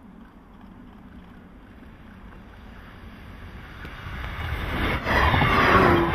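JNR 169-series electric train approaching on snow-covered track, its running noise swelling over the last few seconds into a loud rush as it passes close, throwing up snow.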